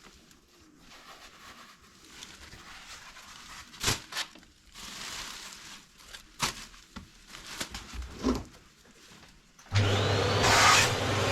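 Scattered faint scrapes and a few sharp knocks as debris is worked loose in the fireplace. About ten seconds in, a vacuum cleaner switches on and runs steadily, loud, with a constant low hum.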